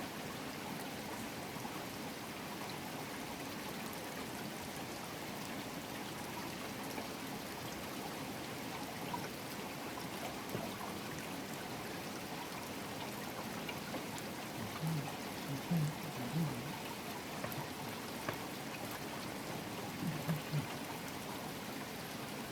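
Steady rain falling, with water running and trickling. A few short, low sounds come in two small clusters, about two-thirds of the way through and near the end.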